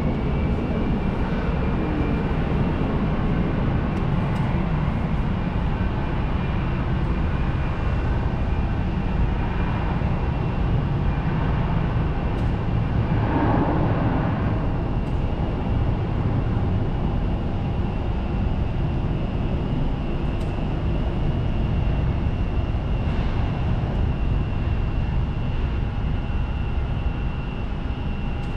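Jet airliner engines running steadily: a low rumble with a steady high-pitched whine over it.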